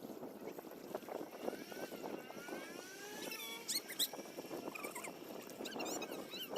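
Water splashing and lapping around a kayak as it is paddled, with a bird chirping in quick high notes about three seconds in and again near the end.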